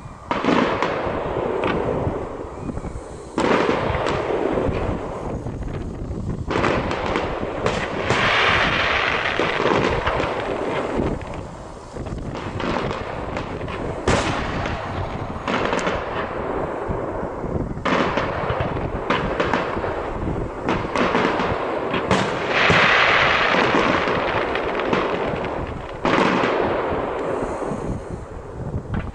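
Aerial fireworks display: many bangs from bursting shells in quick succession, with denser hissing, crackling stretches about eight seconds in and again about twenty-two seconds in.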